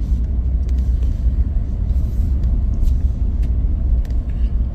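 Steady low rumble of a car in motion, heard from inside the cabin, with a few faint scattered ticks.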